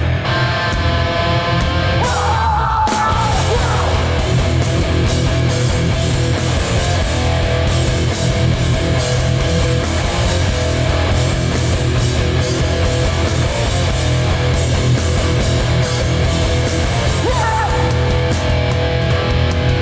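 Hardcore band playing live and loud: guitars, bass and drums.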